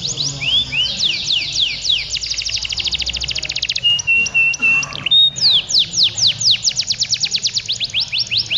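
Domestic canaries singing long, fast trills of rapid downward-sweeping notes, with one steady held note a little past the middle before the trilling resumes.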